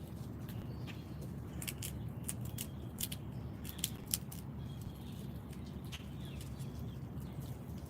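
Backyard feeder ambience: a run of sharp clicks and taps between about two and four seconds in, a few faint bird chirps, and a steady low rumble underneath.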